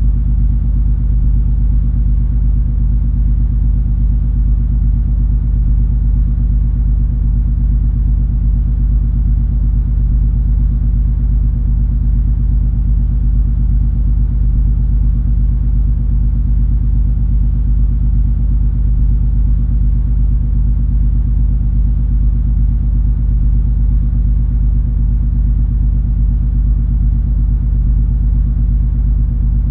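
Cruise ferry MS Color Magic under way: a steady low drone from the ship's engines, with a few constant low hum tones and a soft rushing noise above them, unchanging throughout.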